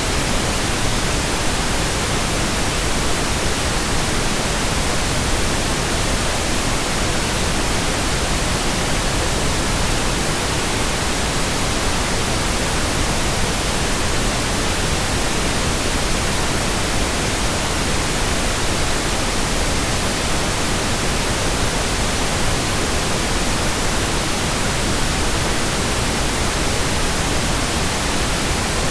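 Steady white noise: an even, unchanging hiss spread across the whole range from low to high.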